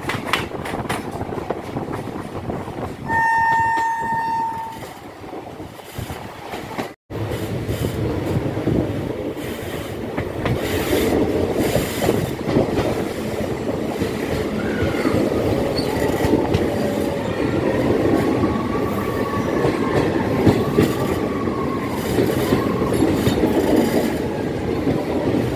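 Train running on the track, with one horn blast about three seconds in that lasts about a second and a half. After a brief cut, the steady rumble of the coaches goes on, and the wheels squeal with a wavering whine through the second half.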